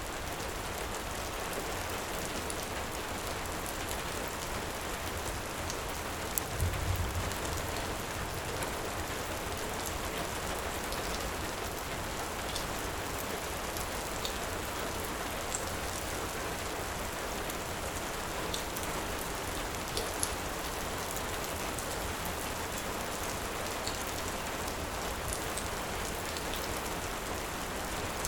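Steady heavy rain, with scattered faint crackles from a wood fire. A brief low thump comes about seven seconds in.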